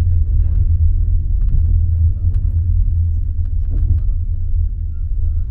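Steady low rumble of a locomotive-hauled passenger train's carriage rolling along the track, heard from inside the carriage, with a few faint clicks.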